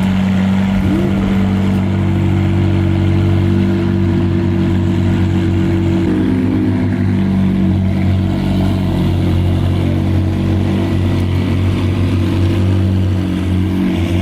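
Ford Mustang GT's V8 with a loud aftermarket exhaust running steadily at low revs, a deep even drone whose pitch shifts slightly about halfway through.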